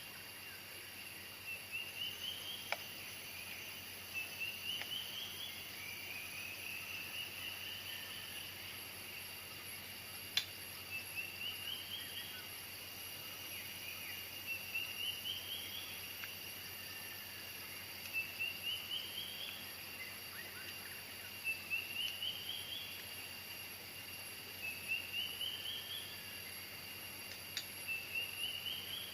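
Insects droning steadily at several high pitches, with an animal call of about six quick notes climbing in pitch repeated roughly every three and a half seconds, and a few faint clicks.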